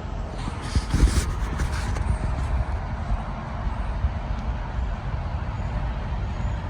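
Car driving on a highway in heavy rain: steady low rumble of road and tyre noise under a hiss of rain and spray, with a few short splashing bursts in the first second and a half.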